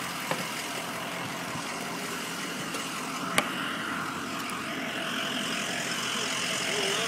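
Car idling while stopped, a steady engine and outdoor hiss, with one sharp click about three and a half seconds in.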